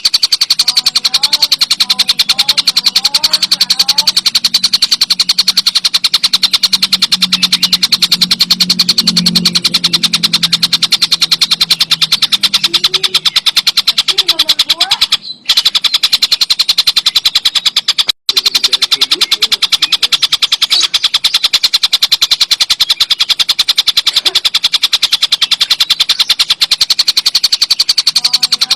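Tengkek buto kingfisher calling in a continuous, very fast high rattling trill, cut by two brief gaps near the middle.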